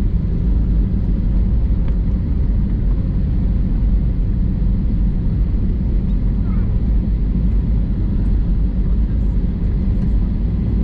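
Steady low rumble of an Airbus A320 airliner heard from inside the passenger cabin: engine and airflow noise.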